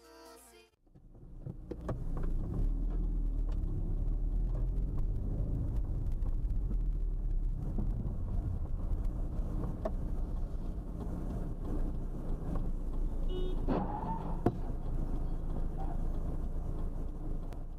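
Car on the road: a steady low rumble of engine and road noise with scattered small knocks and rattles, and one sharper knock about three quarters of the way through.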